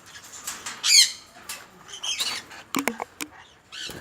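Conure squawking: a loud, harsh call about a second in and another near the middle, followed by a few sharp clicks.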